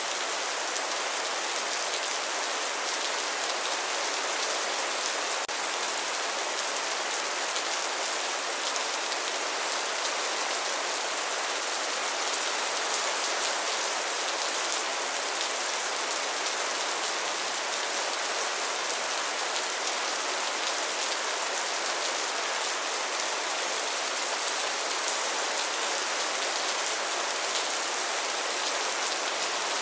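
Steady rain falling, an even hiss of many drops on a surface, unchanging throughout.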